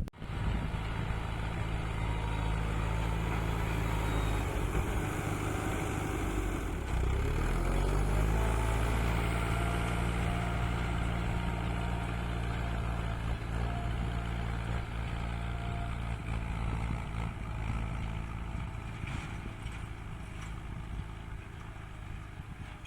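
Tractor engine running steadily. About seven seconds in its pitch drops as the revs fall, and it runs on at the lower speed, gradually getting quieter near the end.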